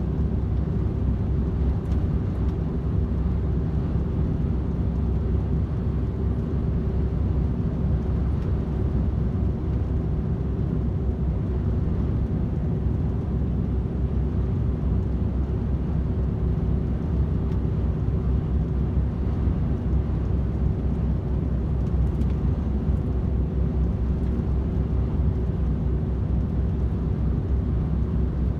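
DAF XF 510 truck cruising at steady motorway speed: a constant low drone from its 12.9-litre six-cylinder diesel and the tyres on the road, with a steady hum running through it.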